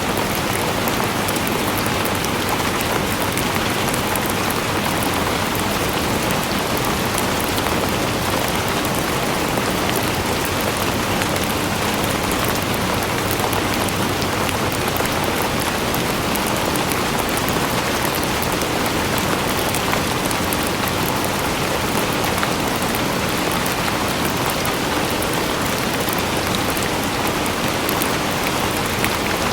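Steady, heavy rain falling and pattering on surfaces, a dense even hiss with fine drop ticks.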